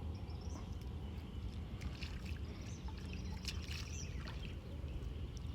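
Faint water trickling and sloshing, with scattered small splashes and ticks, over a steady low rumble.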